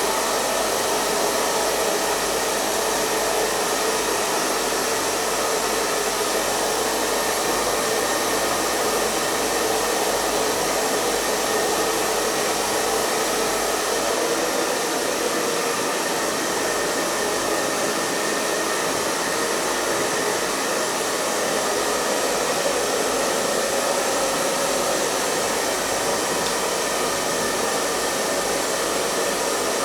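Electric hair dryer running steadily: an even blowing hiss with a faint motor hum, unchanging throughout.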